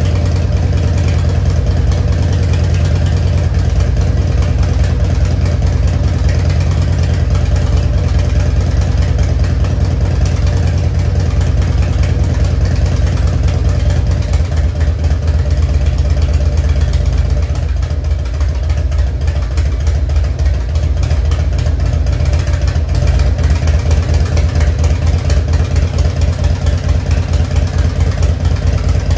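A 1994 Harley-Davidson Heritage Softail Nostalgia's carbureted 1340 cc Evolution V-twin idles on a cold start through Samson exhaust, with a steady deep firing beat. About halfway through the low note changes, and in the last several seconds the beat becomes more uneven and pronounced.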